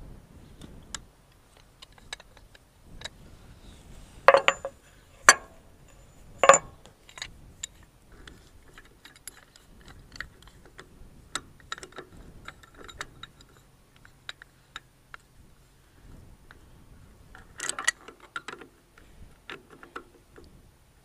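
Metal tools and vacuum pump parts clinking and knocking: three sharp clanks between about four and seven seconds in, another cluster near the end, and lighter taps in between.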